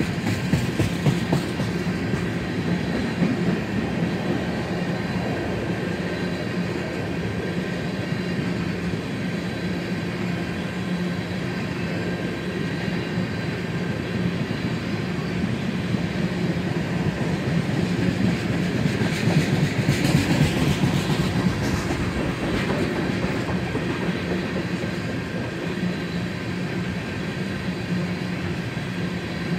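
Freight train of tank cars rolling steadily past, its steel wheels rumbling and clattering on the rails. It grows louder and hissier for a few seconds around twenty seconds in.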